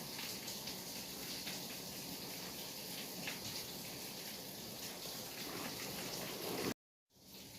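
Steady rainfall, an even hiss with the patter of drops. Near the end it cuts out to silence for a moment, then comes back a little quieter.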